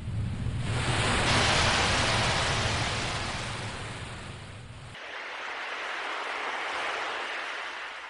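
Ocean waves washing in: a surge of surf builds and peaks early, then ebbs, with a second, softer wave following after an abrupt change in the sound about five seconds in.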